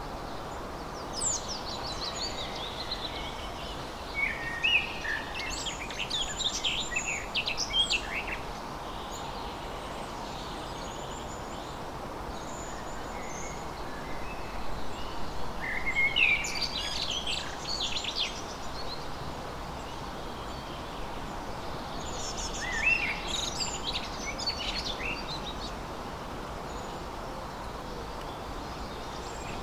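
Songbirds singing in three bouts of quick, high chirps and trills, each a few seconds long with pauses between, over a steady background hiss.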